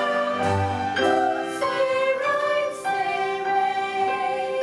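A musical theatre chorus singing held notes over instrumental accompaniment, each note lasting about a second before moving to the next.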